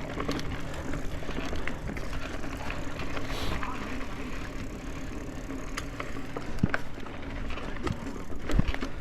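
Mountain bike riding over a dirt forest trail: a steady rumble of tyres and rattling bike parts, with scattered sharp clicks and knocks.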